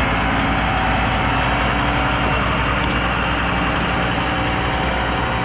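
A heavy diesel engine running steadily, a low, even rumble with no change in speed.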